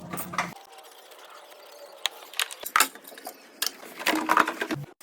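Sharp metallic clicks and knocks from tools at work on the car, with a brief rapid mechanical rattle about four seconds in.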